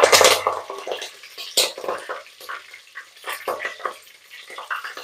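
Curry leaves and green chillies sizzling in hot sesame oil in a clay pot, loudest in the first half second and then dying down. A wooden spatula stirs them, with scattered scrapes and knocks against the pot.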